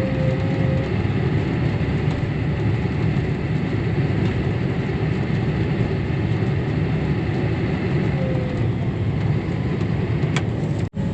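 Tractor diesel engine running steadily under way, heard from inside the cab. The sound drops out for an instant near the end.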